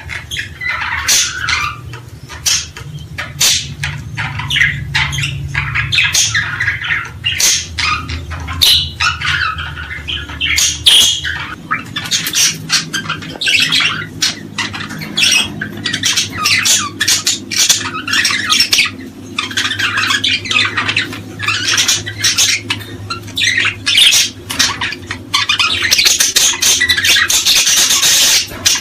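Many small birds chirping and calling in rapid, overlapping bursts, with a low steady hum underneath.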